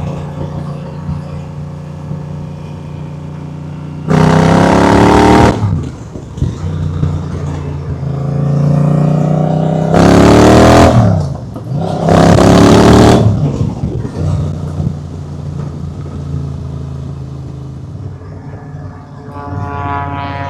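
Honda Rebel motorcycle engine running on the road, revving up three times as it accelerates, each surge rising in pitch then dropping back. A loud rush of noise rides along with each surge.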